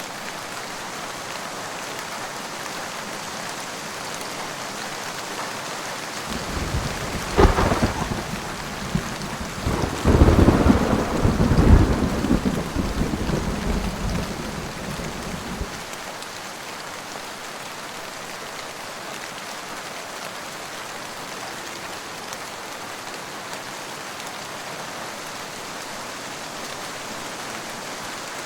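Steady rain falling, with a peal of thunder about a quarter of the way in: a sharp crack, then a deep rolling rumble that swells and dies away over several seconds.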